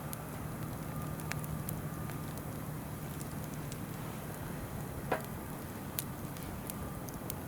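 Wood campfire crackling, with scattered small pops and one louder snap about five seconds in, over the steady rush of a flowing river.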